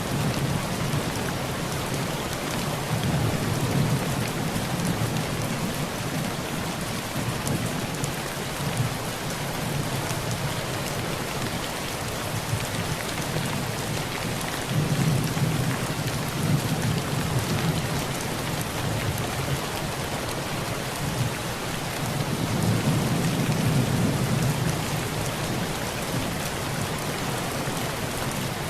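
Heavy rain drumming steadily on a tin roof, with low rolls of thunder swelling up three times.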